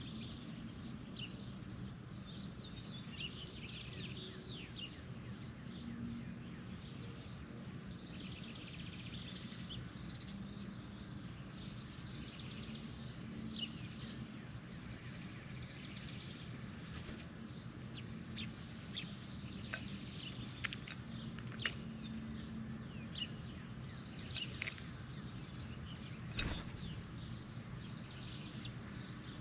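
Birds chirping on and off over a steady low hum, with a few sharp clicks in the second half and one louder knock near the end.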